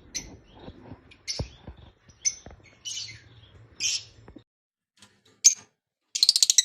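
Lovebirds calling with a string of short, sharp, high chirps. Near the end comes a rapid chattering burst.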